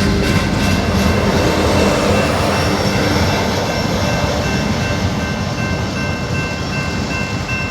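Union Pacific manifest freight train's cars rolling past in a steady rumble, with a steady high-pitched squeal over it.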